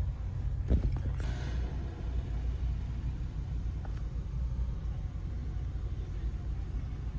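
Low, steady rumble of a car engine idling, with a few brief clicks about a second in.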